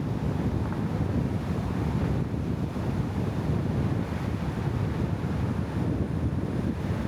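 Steady low rumble of wind buffeting the microphone, an even noise with no distinct events.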